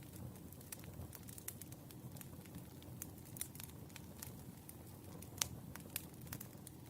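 Firewood burning with scattered crackles and pops over a low, steady rumble of flame; one louder pop about five and a half seconds in.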